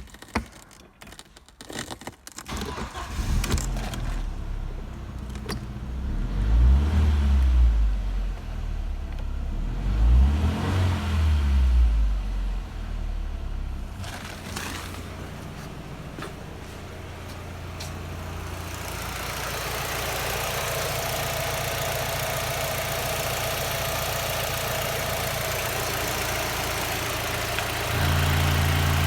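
Audi A4 B6's 2.0-litre four-cylinder petrol engine (ALT) being started after a few clicks, catching about three seconds in. It is revved twice, then settles into a steady idle that steps up a little louder near the end.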